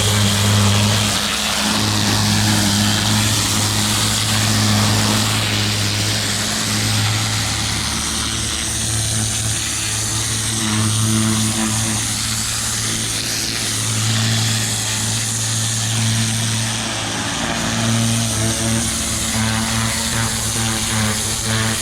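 Pressure washer running steadily with its turbo nozzle spraying: a continuous engine hum that swells and eases every few seconds under the steady hiss of the water jet.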